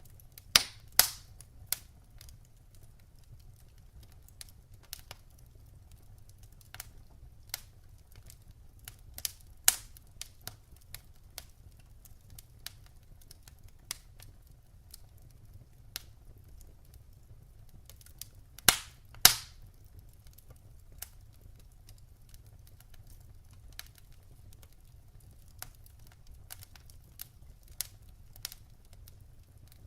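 Log fire in a fireplace crackling, with irregular sharp pops and snaps over a low steady rumble. A loud pair of snaps comes just under a second in, and another about two-thirds of the way through.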